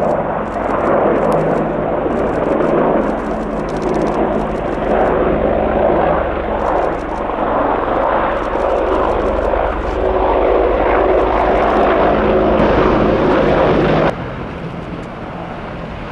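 Apache attack helicopters passing low overhead, a loud steady rotor and engine noise. It drops off abruptly about fourteen seconds in.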